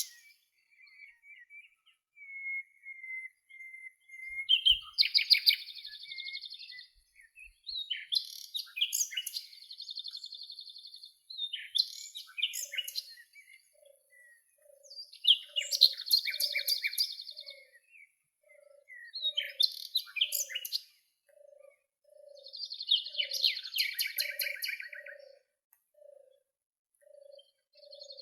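Songbirds singing: short trilling and chirping phrases every few seconds, with quiet gaps between them. From about halfway in, a soft low note repeats about once a second beneath the song.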